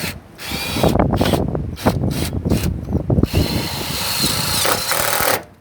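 Power drill run in several short bursts, then one longer run of about two seconds that cuts off near the end.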